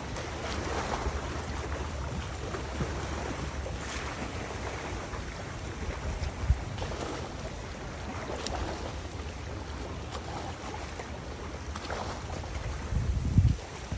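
Wind buffeting the microphone with a steady low rumble over the wash of river water, with stronger gusts about six and a half seconds in and again near the end.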